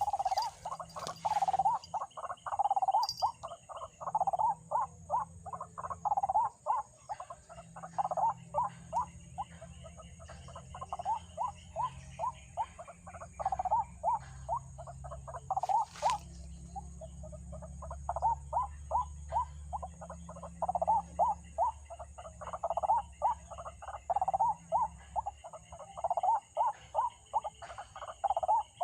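White-breasted waterhen calls: rapid, repeated croaking 'ruak-ruak' notes in long runs with short pauses, as used to lure the birds into a trap.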